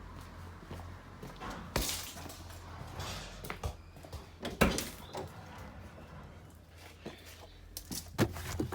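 Irregular knocks, clicks and rustling from hands rummaging around under a car seat and its trim, with a steady low hum underneath.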